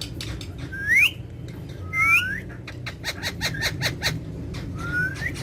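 Pet parrots giving short rising whistled calls, three times, one of them as two overlapping voices, with a run of quick clicks in between.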